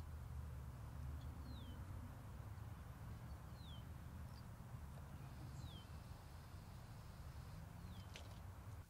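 A bird repeats a single short down-slurred whistle about every two seconds, over a steady low outdoor rumble. A single sharp tick comes near the end.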